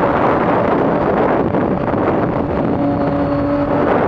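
Triumph Street Triple Rx's 675 cc three-cylinder engine running at a steady pace through a Coffman's exhaust, under heavy wind rush on a helmet-mounted mic. The engine note comes through more clearly about three seconds in.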